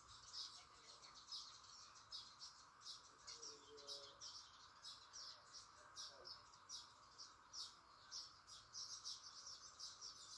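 Faint, rapid chirping of small birds: many short high calls, several a second, over a steady faint hiss.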